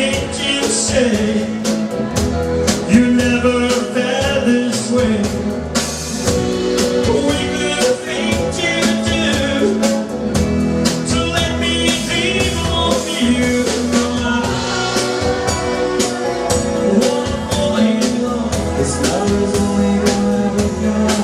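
Live rock-and-roll band playing a steady beat, with drums and sustained instrument lines.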